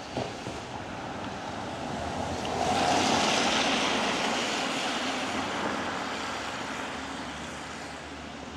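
A vehicle passing on a wet road, its tyre hiss swelling to a peak about three seconds in and then slowly fading away.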